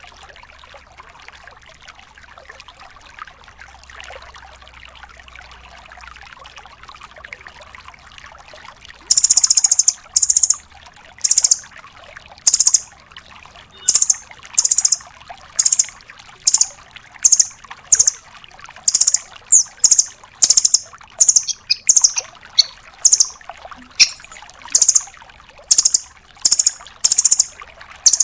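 Velvet-fronted nuthatch ('rambatan') giving a long series of short, sharp, high-pitched calls in rapid succession, about one or two a second. The calls begin about nine seconds in; before that there is only faint background hiss.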